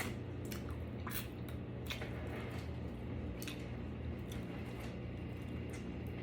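Close-miked eating of chicken wings: scattered wet mouth smacks and chewing clicks, over a steady low hum.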